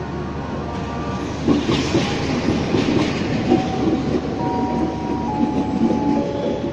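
Diesel-hauled passenger train passing close by, its coaches rolling past with the wheels clattering over the rail joints.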